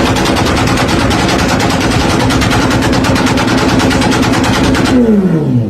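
Engine exhaust held at high revs with a rapid, machine-gun-like string of crackles. Near the end it stops and the revs fall away in a descending pitch.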